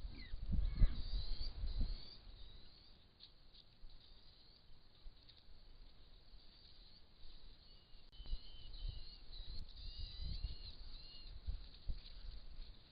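Small birds chirping in short high calls, busiest in the second half, over bursts of low rumbling and bumping noise in the first two seconds and again from about eight seconds in.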